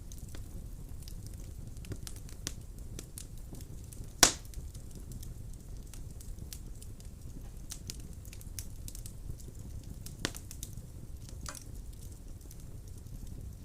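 Wood fire burning in a fireplace: a steady low rumble of flames with scattered crackles, and a sharp loud pop about four seconds in and another near ten seconds in.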